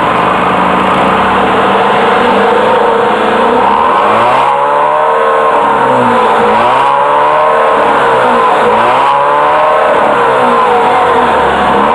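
Car engine running steadily, then revved up and down several times, each rise and fall of pitch lasting about two seconds.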